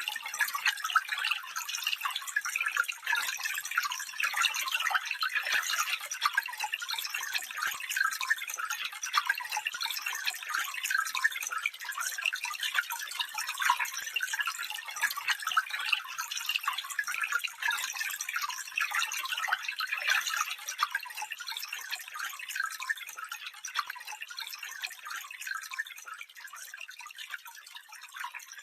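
Stream water running and splashing over stones in a steady bright babble, fading out near the end.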